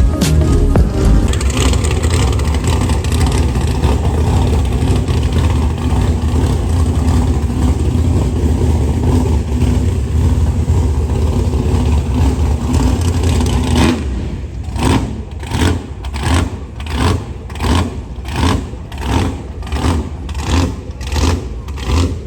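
Car engine running loud with a deep rumble, then revved in quick, regular blips, about one and a half a second, through the last third.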